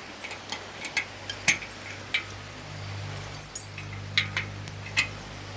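About a dozen light metallic clinks and jingles, irregularly spaced, over a low steady hum that comes in about half a second in.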